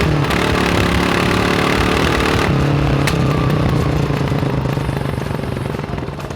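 Kawasaki KLR 600 single-cylinder four-stroke motorcycle engine running under way. The revs dip just after the start, the note changes about two and a half seconds in, and the engine slows and quietens over the last couple of seconds.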